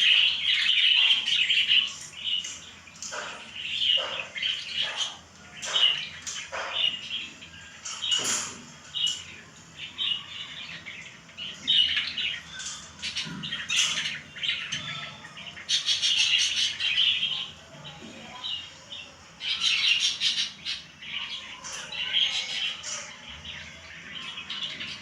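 Pet lovebirds chirping and squawking: shrill calls come in repeated bursts and clusters, with short pauses between.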